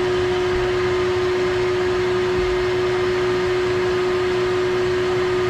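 Vacuum motor running with a steady whine and rush of air, drawing suction on a tube pushed down an engine's dipstick tube to pull the oil out.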